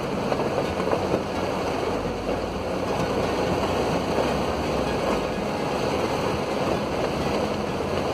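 Steady rushing noise of a car driving in heavy rain: rain and tyres on a wet road.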